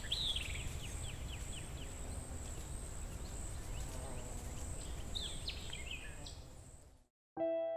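Outdoor ambience of birds chirping in short, quick downward-sliding calls over a steady high-pitched insect tone and a low rumble, fading out about seven seconds in. Plucked acoustic guitar music begins just before the end.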